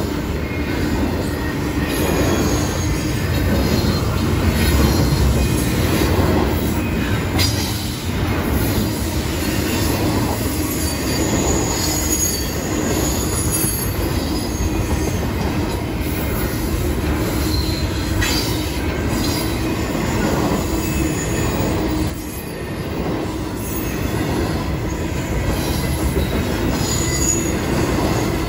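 Double-stack container train's well cars rolling past: a steady rumble and rattle of wheels on the rails, with faint high wheel squeals coming and going.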